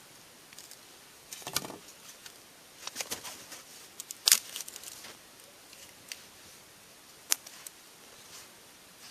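Small kindling fire of thin sticks crackling: a few sharp, scattered pops and snaps, the loudest about four seconds in, over a faint rustle.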